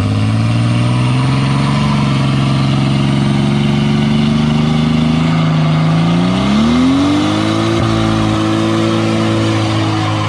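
A car engine pulling hard under acceleration: its pitch climbs slowly, rises sharply about six seconds in, then holds high and steady.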